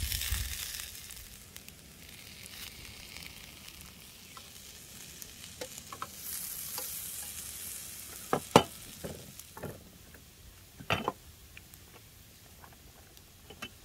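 Food frying in a pan with a hissing sizzle that swells at the start and again about six seconds in. Several sharp clicks and knocks of a utensil against the pan come in the second half, the loudest about eight and a half seconds in.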